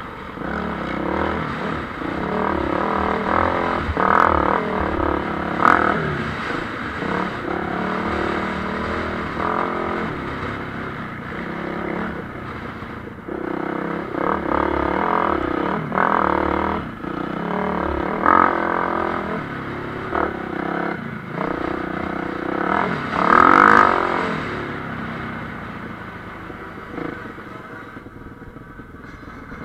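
Motocross bikes racing past, their engines repeatedly rising and falling in pitch as several riders accelerate and back off. The loudest pass comes about two-thirds of the way through, and the engines fade near the end.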